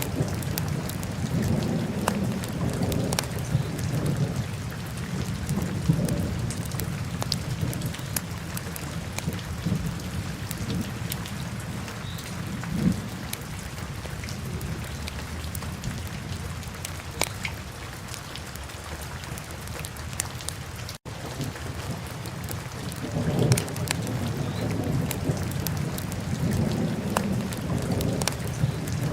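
Wood fire burning in a fireplace: a steady low roar of flames that swells now and then, with scattered sharp crackles and pops. The sound cuts out for an instant about two-thirds of the way through.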